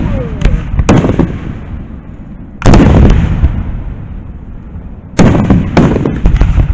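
Aerial firework shells bursting overhead: a boom about a second in, a loud one near three seconds and another near five seconds, followed by a quick run of smaller reports. Each report fades away slowly.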